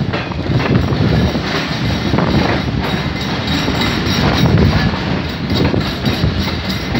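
Pakistan Railways express passenger coach running through a station, heard from its open doorway: a steady rumble of steel wheels on the rails with clicks as the wheels cross rail joints.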